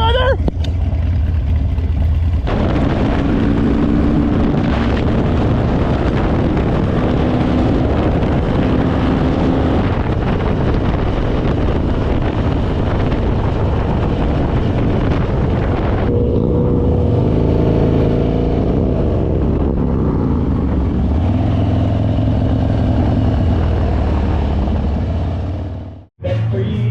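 Harley-Davidson V-twin motorcycle engine running under way, its note rising and falling with throttle and gear changes, under a steady rush of wind noise. It cuts off abruptly shortly before the end.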